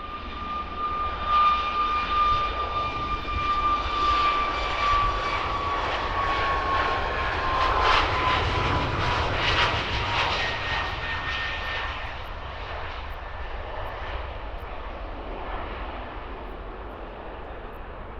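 Boeing 737 MAX 8's CFM LEAP-1B jet engines on departure: a loud roar that swells about a second in and fades over the last several seconds, with a steady high whine that slowly drops in pitch as the jet goes by.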